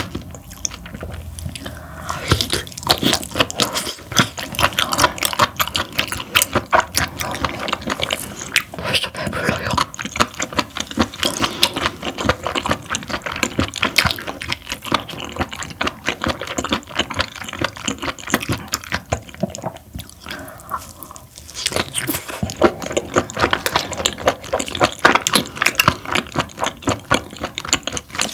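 Close-miked chewing of parboiled webfoot octopus: a dense run of quick mouth clicks and smacks, briefly easing off about twenty seconds in.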